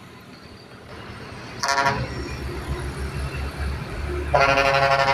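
Heavy truck's horn: a short toot, then a longer blast of about a second near the end that cuts off suddenly, over the low rumble of a heavy truck engine going by.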